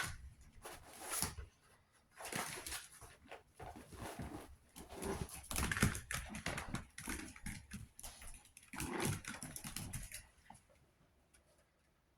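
Chihuahua puppies making small dog sounds and moving about, in irregular bursts with short pauses.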